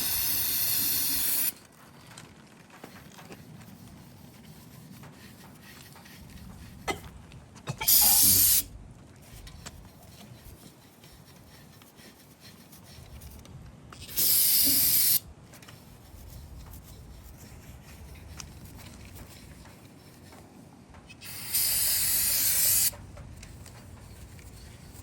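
Aerosol spray cleaner hissing out of the can in four short bursts, each about a second to a second and a half long, as the engine block is sprayed down to flush out dirt.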